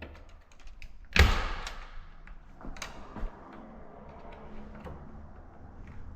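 A single loud knock about a second in that rings off briefly, amid scattered light clicks and knocks of handling.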